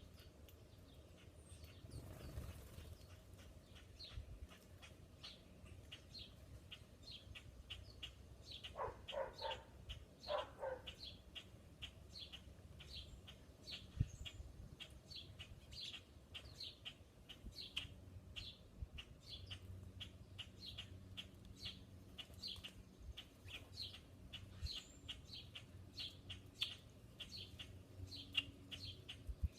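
Songbird chirping: a long, even run of short high chirps, about two a second. Twice, around nine and ten seconds in, a lower, harsher call from another bird cuts in.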